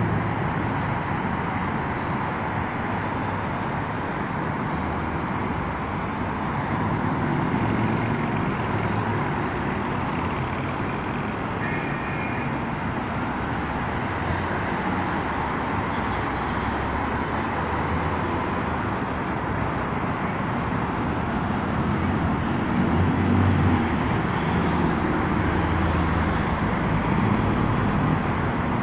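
Steady road traffic noise of a busy city street, with low rumbles of heavier vehicles swelling louder a few times, most strongly near the end.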